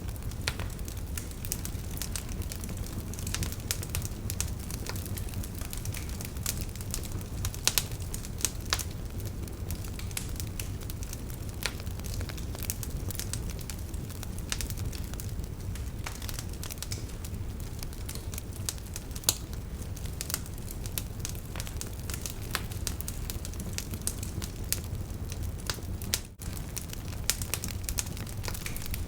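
Campfire crackling, with irregular sharp pops and snaps of burning wood, over a steady low rushing of a river. The sound dips out for a split second near the end.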